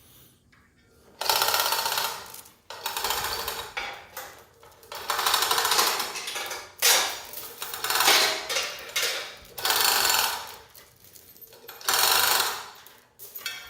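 Repeated bursts of rapid mechanical rattling, about seven in all, each lasting a second or so with short pauses between.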